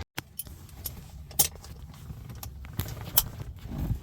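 A few sharp metallic clicks and jingles over a low steady rumble, two of them standing out about a second and a half and three seconds in.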